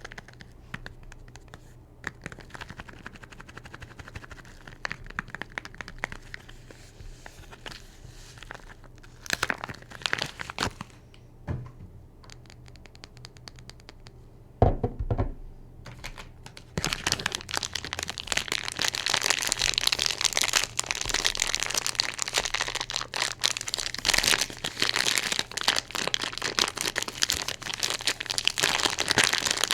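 Soap wrappers being crinkled and torn open by hand, with one low knock a little before halfway. Just past halfway the crinkling becomes continuous and louder.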